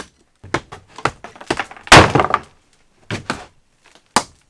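Hammer blows knocking out chimney masonry: a run of sharp strikes, with a loud crash of breaking, tumbling stone just under two seconds in, then a few more single blows.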